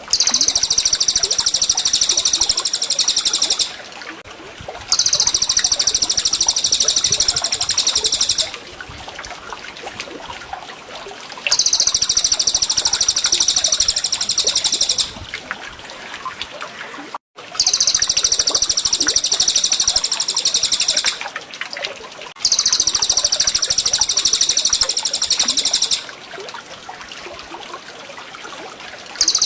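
Looped recording of a songbird's long, rapid, high-pitched trill, each about three and a half seconds long, recurring every five to six seconds with short pauses. A steady trickle of running water continues underneath.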